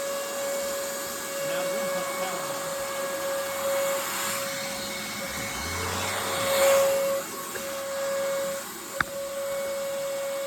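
RIDGID 6-gallon shop vac running with a Hoover WindTunnel powerhead on its hose: a steady high motor whine over rushing air. The airflow swells and dips a few times, and there is a single sharp click about nine seconds in.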